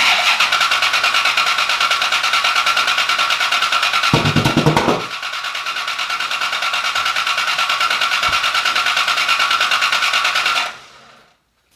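Starter motor cranking the engine of a Factory Five Cobra replica: a fast, even, high-pitched churning pulse that stops abruptly after about ten and a half seconds. A brief deeper rumble comes about four seconds in. The engine does not catch and run.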